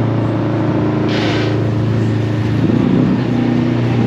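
Car engine idling steadily, with a short hiss about a second in.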